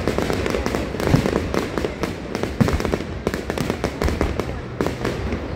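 Aerial fireworks going off in a dense barrage: many bangs and crackles in quick succession, without a pause.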